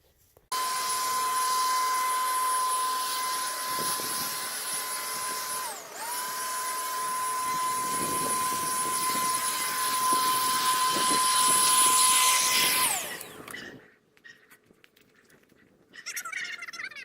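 Leaf blower running with a steady high-pitched whine. It dips briefly about six seconds in and comes back up, then winds down and stops near the end.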